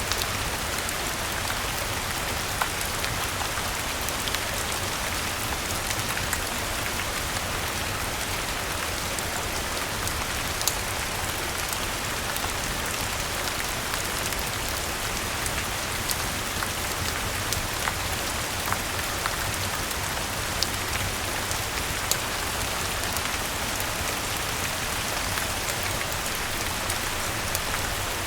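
Steady rain falling, with scattered sharp crackles and pops from a wood fire every second or two.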